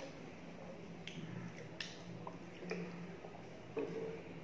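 Close-miked eating: chewing of rice and mutton curry with a few separate wet lip smacks and mouth clicks, the loudest near the end, over a faint low steady hum.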